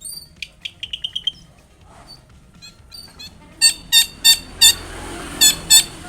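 Long-tailed shrike singing: quick high chirps and a short rapid trill in the first half, then a run of six loud, harsh calls.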